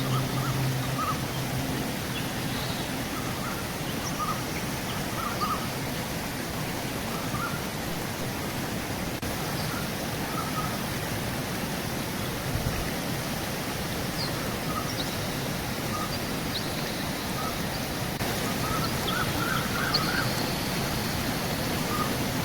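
Steady rushing of a flowing river, with scattered short bird calls over it.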